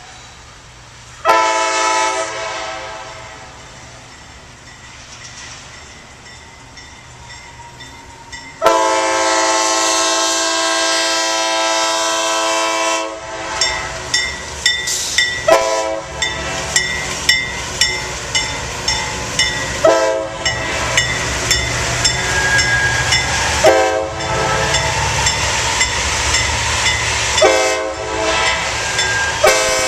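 Locomotive air horn blowing a series of blasts: a short one, a long one of about four seconds, then shorter ones every few seconds. As the train passes, its wheels clack over rail joints about twice a second over a low rumble.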